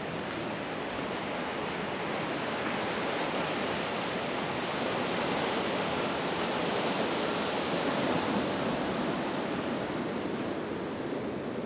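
Ocean surf washing against a rocky shore: a steady rush that swells slowly to a peak about eight seconds in and then eases off.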